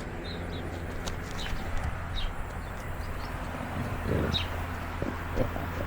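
A small bird chirps a few times in short high notes, over a steady low hum. In the second half come two louder, short low knocks or rustles.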